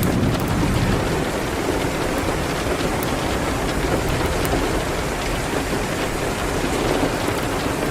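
Steady, dense rain hitting a window, with a few sharp crackles from a wood fire in a fireplace.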